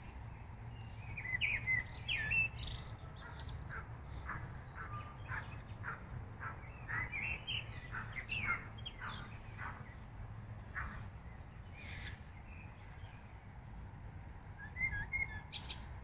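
A songbird singing in short, uneven phrases of chirps and whistles, a song that sounds somewhat off-key, over a steady low background rumble.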